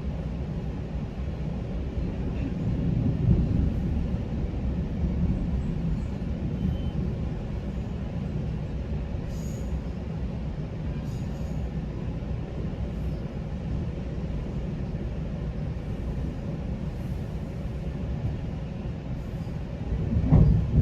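GO Transit commuter train running on the rails, heard from inside a passenger coach as a steady low rumble. The rumble swells briefly a few seconds in, and there is a louder low thump near the end.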